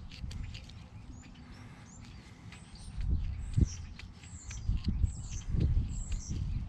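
A small bird chirping over and over in short high calls, with soft clicks and squelches of grease being hand-packed into a tapered wheel bearing. From about three seconds in, low thumps and rumbles, the loudest sounds, come and go.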